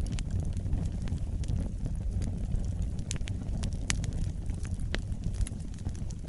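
Wood fire burning in a fireplace: a steady low rumble of flames with scattered sharp crackles and pops, a few louder snaps about three to five seconds in.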